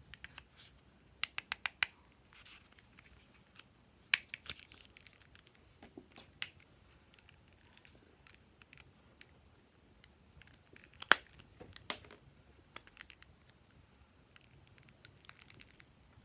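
Glossy slime being worked by hand, giving sharp sticky clicks and pops in short runs with quiet gaps between; the loudest pop comes about two-thirds of the way through.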